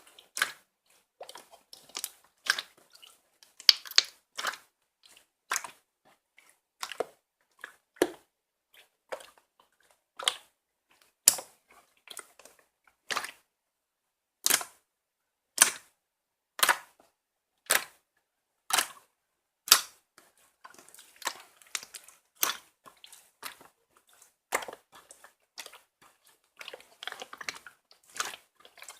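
Slime being pressed and squished, making sharp popping clicks about once a second, with a denser run of small crackles over the last third.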